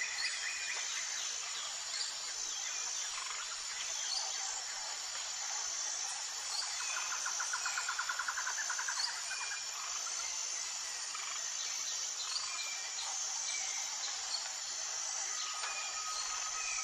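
Tropical forest ambience: a steady, high-pitched insect chorus with scattered bird chirps. About a third of the way in, a rapid trill runs for a couple of seconds, and near the end a long, steady whistled note comes in.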